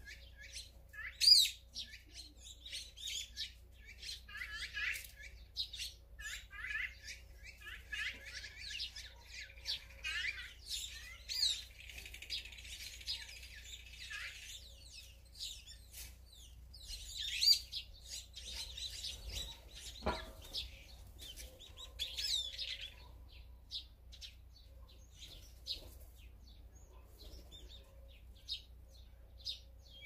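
Wild birds chirping and calling, many short overlapping calls with a few louder, sharper ones standing out. They thin out to scattered chirps in the last quarter. A single soft knock comes about two-thirds of the way through.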